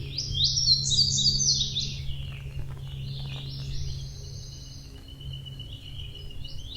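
Forest songbirds singing: a quick burst of rapid high chirps in the first two seconds, then scattered notes and a thin steady whistle, over a low steady hum.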